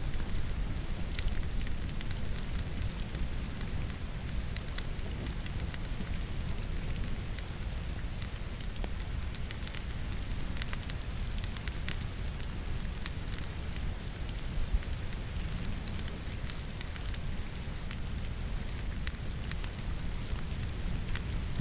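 Wood logs burning in a fireplace, crackling with frequent irregular sharp pops over a low steady rumble, layered with steady rainfall.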